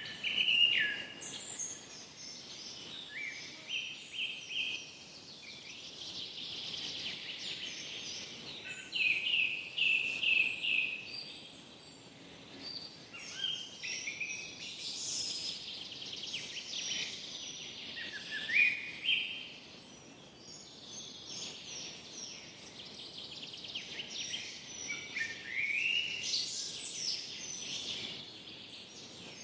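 Forest birdsong: several birds chirping and trilling at once, the high calls overlapping almost without pause over a faint steady hiss.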